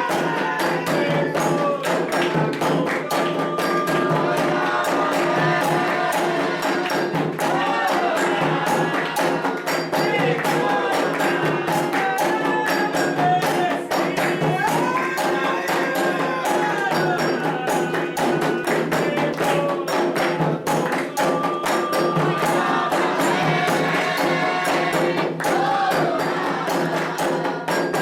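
Candomblé ritual music: atabaque drums and hand percussion playing a steady, dense rhythm under voices singing a chant. It runs on without a break.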